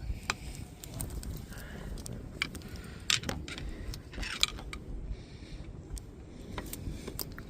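Irregular metallic clicks, taps and short scrapes of a screwdriver and brake hardware being worked against a Jaguar XJ-S front brake caliper while forcing a pad-retaining clip into place.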